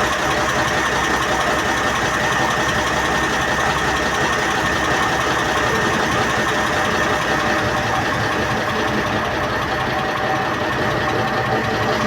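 Passenger train's engine running steadily, an even drone with a constant high whine over it and no change in pace.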